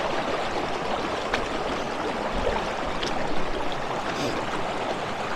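River water and the waterfall at its base rushing steadily, an even noise with no break, with a few faint clicks over it.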